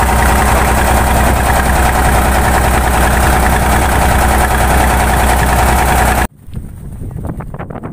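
Boat engine idling steadily, loud and close. About six seconds in it cuts off abruptly, leaving quieter wind noise on the microphone with a few light knocks.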